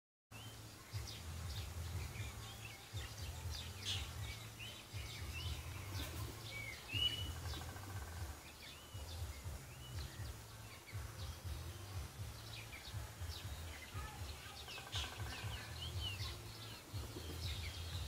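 Wild birds chirping and calling, short high chirps and a few quick sweeping calls scattered throughout, over a steady low rumble.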